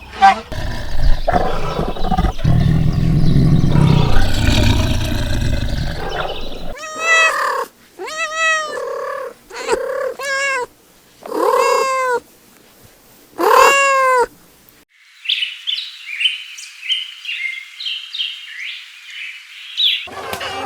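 A domestic cat meowing five times in separate calls, each rising and falling in pitch. Before them, a few seconds of a loud, rough, unpitched sound. After them, rapid high-pitched bird chirping.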